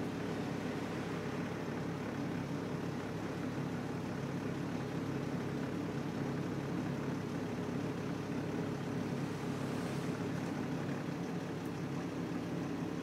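Detroit Diesel Series 40 engine and drivetrain of a 2000 Nova Bus LFS running steadily, heard from inside the moving bus: a constant low drone.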